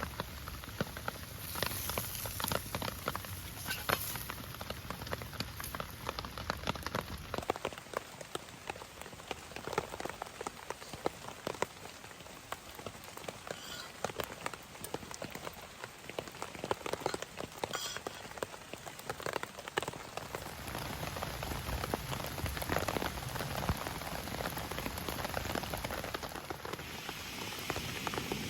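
Heavy rain on a camping dome tent, with dense, close-spaced drops pattering on the fabric. The sound changes character abruptly twice.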